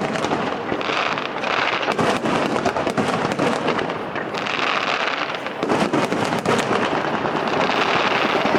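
Fireworks display going off: a dense, continuous run of crackles and pops.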